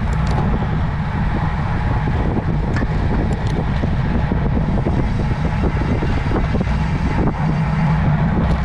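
Steady wind and road noise from a road bike on the move, heaviest in the low end, with a few faint ticks.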